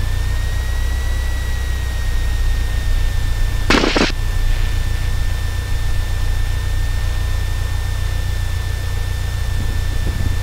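Cessna 172's engine and propeller drone heard through the cockpit intercom during taxi, with a steady high whine over it. About four seconds in comes a brief burst of static hiss.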